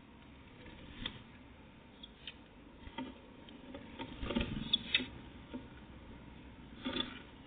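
Irregular light taps and scratches, typical of small birds pecking and hopping at a feeder, with a short cluster of louder knocks about four to five seconds in and another near the end.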